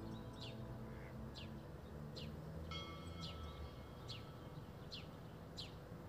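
A small songbird calling over and over, short high notes that fall in pitch, about one a second, with faint chime-like music tones underneath.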